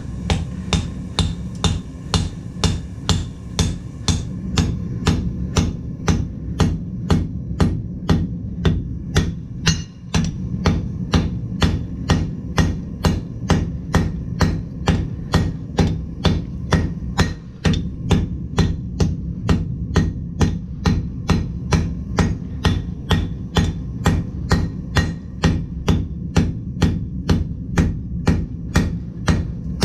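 Forging hammer blows on hot steel at the anvil, struck in a steady rhythm of about two blows a second, over a steady low hum.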